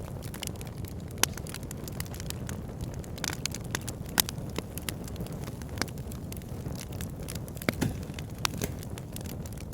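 Wood fire in a log burner crackling: a steady low rush of burning with irregular sharp pops and snaps, a few of them louder, such as about a second in, about four seconds in and near eight seconds.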